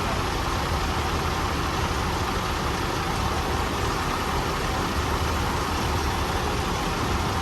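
Diesel truck engine running steadily at an even speed.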